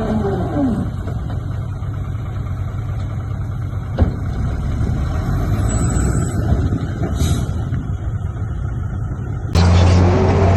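Heavy construction machine's diesel engine running with a dense, steady rumble, a sharp knock about four seconds in. Near the end the sound jumps abruptly to a louder, steadier low hum.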